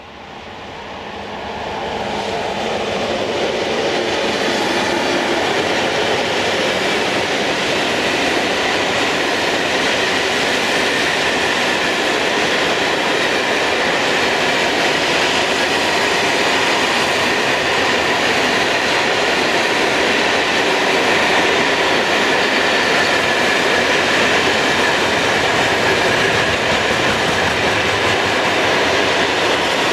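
Freight train of covered hopper wagons passing close by at speed, its wheels running steadily over the rails. The sound swells over the first two seconds or so as the train arrives, then holds loud and steady.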